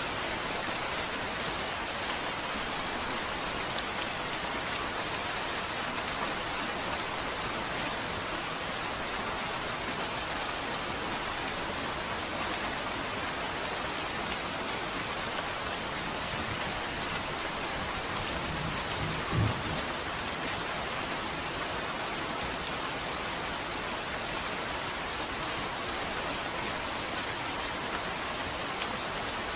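Steady, even rain falling on a surface, with a brief low thump about two-thirds of the way through.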